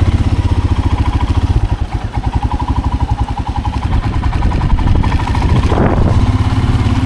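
Royal Enfield Himalayan's single-cylinder engine pulsing steadily while riding. It eases off around two seconds in and picks up again from about four seconds.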